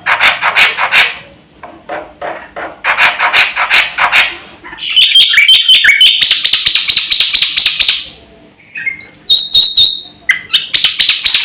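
Black-winged starling (jalak putih) in loud full song. It opens with harsh, clicking, rattling phrases, then gives fast runs of repeated high notes, broken by a short pause about two-thirds of the way through.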